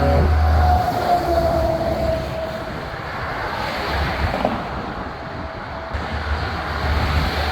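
Semi trucks rolling past in a convoy: diesel engines rumbling with road and tyre noise, louder at the start and end as trucks go by. In the first two seconds or so a faint tone slides slightly lower as a truck passes.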